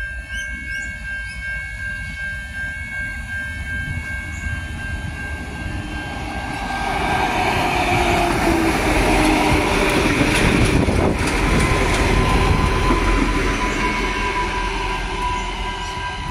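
A pair of Adelaide Metro 3000/3100 class diesel railcars approaches and passes close by. The engine and wheel noise builds to its loudest about ten seconds in, with wheels clicking over the rail joints and a thin wheel squeal, then eases away. Before and after the pass, the level crossing's warning bells ring a steady high tone.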